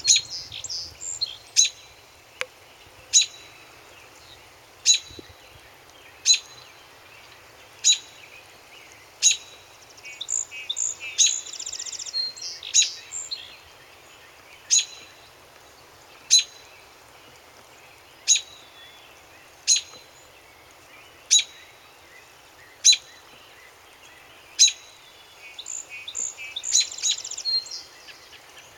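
Birds singing: a short, sharp call repeats about every one and a half seconds, with bursts of more varied, warbling song in between.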